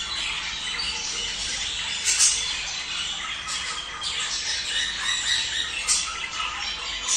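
A flock of budgerigars chattering and warbling without pause, the mating-season chatter of breeding budgies. Sharp squawks stand out about two seconds in and again near six seconds.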